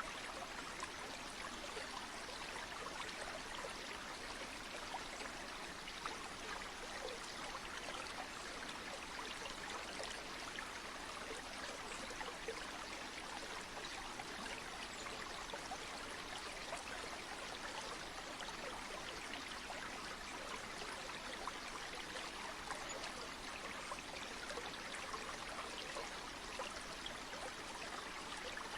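Steady flowing water of a stream or small river, an even rushing with fine trickling detail.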